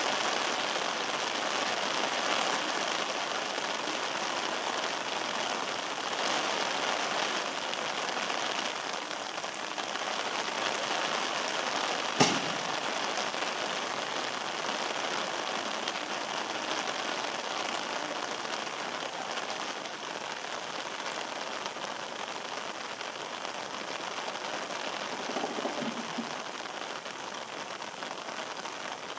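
Steady rain falling on wet paving and walls, with one sharp knock about twelve seconds in.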